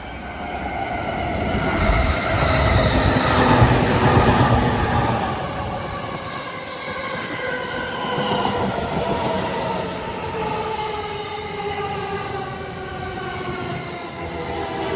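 E231-1000 series electric commuter train running into a station fast, its wheels rumbling loudly as the cars pass about two to five seconds in. Then a whine of several tones falls slowly in pitch as the train slows.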